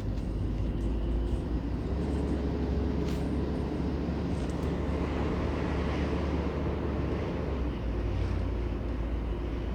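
A car driving along, its engine and tyre noise giving a steady low rumble that swells slightly in the middle.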